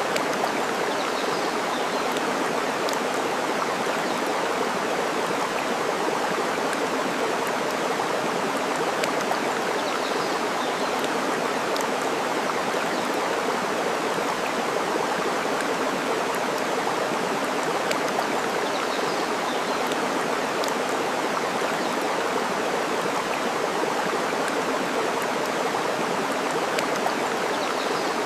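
Steady rushing water of a stream, with scattered sharp crackles and pops of a wood fire. A faint short bird chirp comes about every nine seconds.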